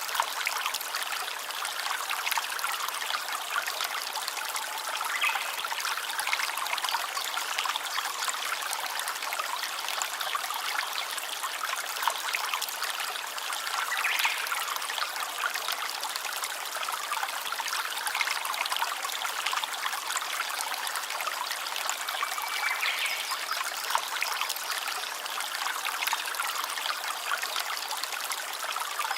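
A small stream running, water trickling and splashing steadily over stones.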